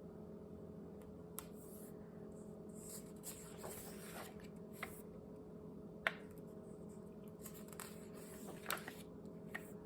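A paper picture book being handled: faint rustling and a few small sharp clicks over a low steady hum.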